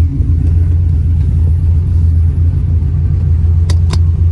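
Cammed 5.3-litre V8 running through a Carven R-Series muffler, a steady low exhaust rumble heard from inside the cabin. Two short sharp clicks near the end.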